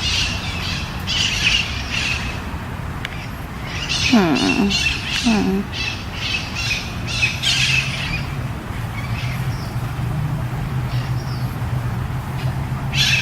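Birds calling: repeated high squawks and chirps, with two lower sliding calls about four and five seconds in, over a steady low hum.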